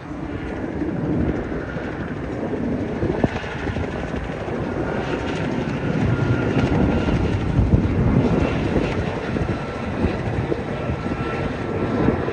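Lockheed C-5 Galaxy's four turbofan engines as it flies over: a steady deep rumble with a faint whine on top.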